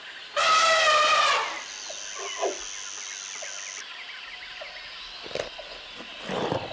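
An animal's drawn-out pitched call lasting about a second, followed by a background of many faint chirps and a steady high-pitched tone, with a few weaker calls later.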